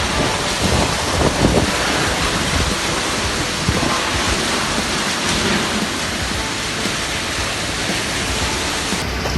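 Heavy storm downpour: a loud, dense, steady rush of rain, with a few low thuds in the first couple of seconds.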